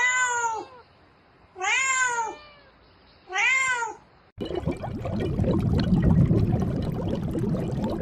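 A domestic cat meowing three times, each meow about half a second long, rising then falling in pitch. About halfway through it cuts abruptly to a steady noise full of small crackles.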